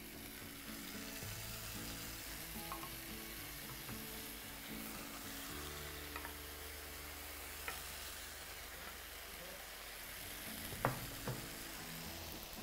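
Marinated boneless chicken pieces frying in hot oil in a pan: a steady sizzle, with a few light clicks as more pieces are spooned in.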